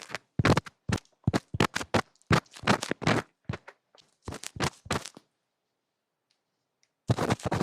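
Ear-cleaning ASMR: close, scratchy rubbing and scraping strokes against the microphone in quick irregular bursts. They pause for about two seconds past the middle, then start again.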